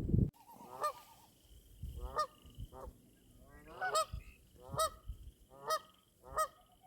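Geese honking repeatedly, about one honk a second.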